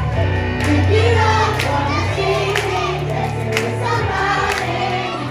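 Pop song with singing over a steady bass line and a beat that strikes about once a second.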